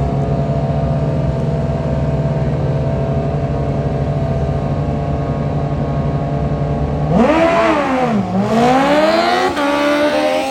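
Small mini bike engine idling steadily, then revved hard about seven seconds in: the pitch climbs, dips, and climbs again, with a sudden drop and renewed rise near the end like a gear change as the bike pulls away.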